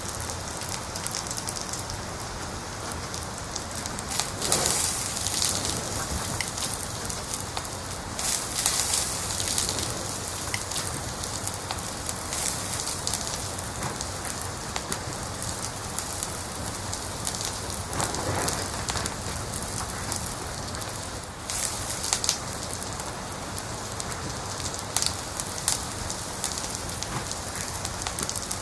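Wood fire crackling in a fireplace: a steady hiss full of small, sharp pops, with louder flurries of crackling about four and nine seconds in.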